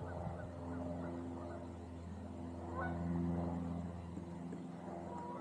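Geese honking repeatedly over a steady low hum.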